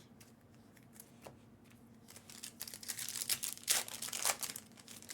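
Foil trading-card pack wrapper crinkling as it is torn open. It starts with a few light ticks and rises to a dense crackling burst from about two and a half seconds in.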